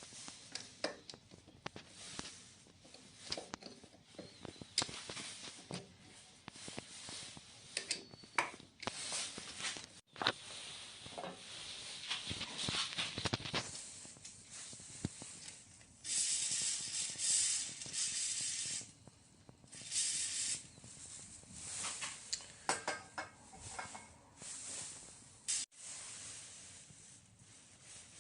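Irregular clicks, knocks and scrapes of faucet parts being handled during disassembly, with stretches of hissing, the longest and loudest about two thirds of the way through.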